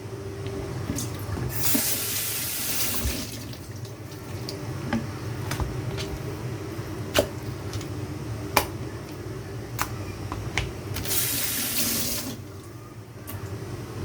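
Kitchen tap running into a sink in two short spells a few seconds apart, with sharp knocks and clinks in between and a steady low hum underneath.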